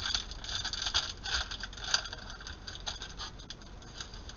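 Trading cards being flipped through by hand: a quick run of scrapes and light clicks as card slides over card, busiest in the first two seconds with one sharper snap about two seconds in.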